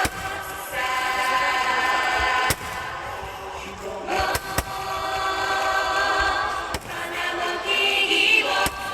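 Choir music with several sharp bangs of aerial fireworks bursting, about five across the stretch, spaced unevenly.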